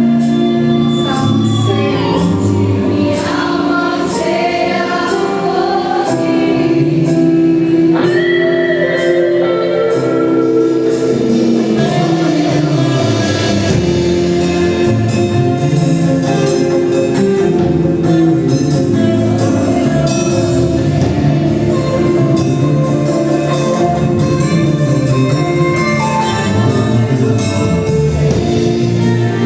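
Live gospel worship music: a group of singers with band accompaniment and a steady percussion beat.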